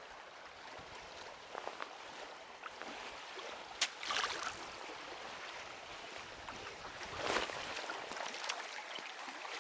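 River water lapping and washing around a small boat. About four seconds in there is a sharp click, and there are two short rushes of noise, one just after the click and one near seven seconds.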